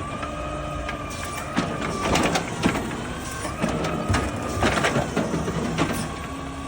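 Hydraulics of a garbage truck's automated side-loader arm whining steadily over the running truck, with several sharp clanks and clicks as the arm is worked. The arm is not fully retracting.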